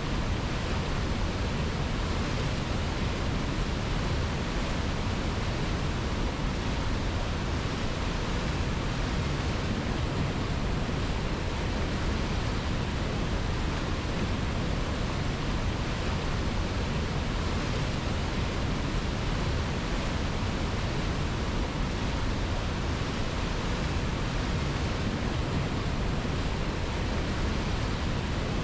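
River water flowing, a steady, even hiss that does not change.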